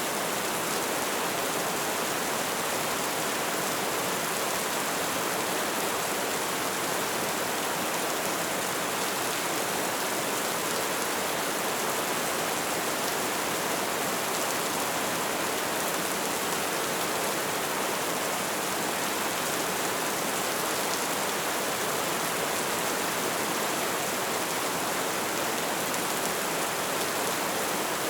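Light rain falling steadily, an even hiss of many drops with no pauses.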